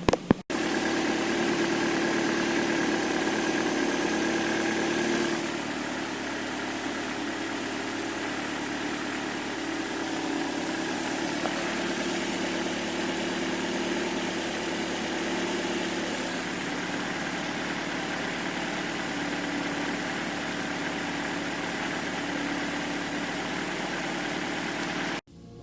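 Mercedes W124's 2.0-litre M102 four-cylinder engine running steadily at idle; about five seconds in the sound drops slightly in level and a higher steady tone falls away, after which it runs on evenly.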